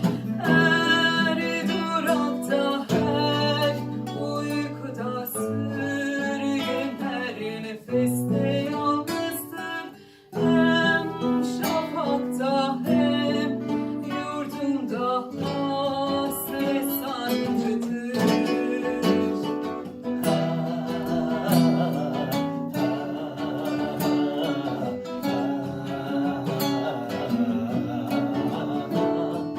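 Acoustic guitars strumming and picking chords, with a brief pause about ten seconds in.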